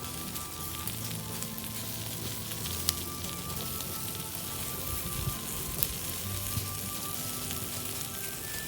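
Campfire of Japanese cedar and hinoki cypress bark burning with a steady crackle and scattered sharp pops, the loudest about three seconds in and another near six seconds. Soft background music with sustained notes underneath.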